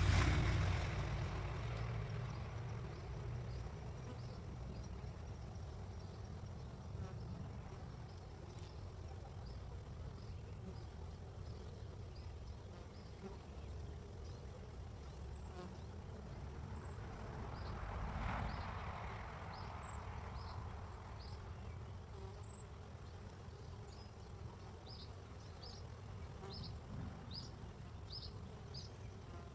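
Honeybees buzzing around a hive entrance, a steady hum, with flight activity dwindling as the eclipse darkens and the bees go inside. The sound swells louder right at the start and again about two-thirds of the way through. Short high chirps repeat about once a second near the end.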